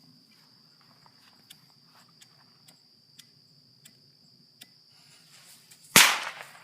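A firecracker goes off with a single sharp bang about six seconds in, after a few faint clicks and a short rising hiss. A steady high insect chirring runs underneath.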